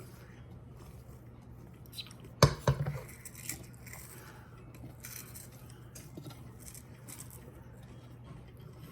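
Kitchen bowls and containers clattering as they are handled and set down on the counter: a faint knock, then a quick cluster of loud clacks about two and a half seconds in and a lighter one a second later, followed by quiet handling over a steady low hum.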